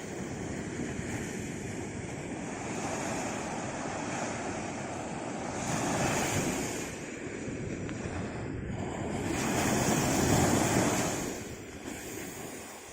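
Sea waves washing in continuously, with two louder surges of surf about six seconds and ten seconds in.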